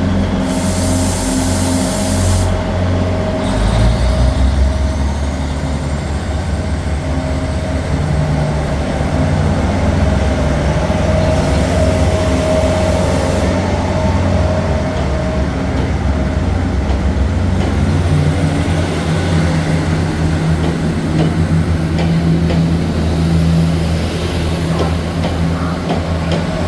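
A DR3100 diesel multiple unit's engines running with a steady low drone at the platform. Compressed air hisses from the brakes twice: just after the start and again about halfway through.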